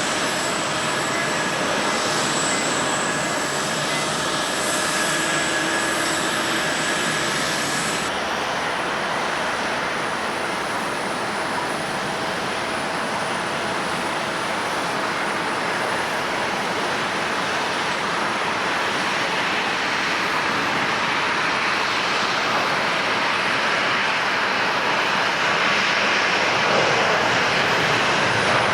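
Jet airliner engines: a steady rushing noise with high whining tones that stop abruptly about eight seconds in, giving way to a plain rushing noise that grows louder near the end.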